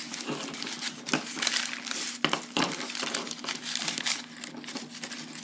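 Hands tying a cord onto a bird toy strung with beads and shells: rustling and crinkling, broken by sharp clicks as the beads and shells knock together, the clearest a little after a second in and twice around two and a half seconds in.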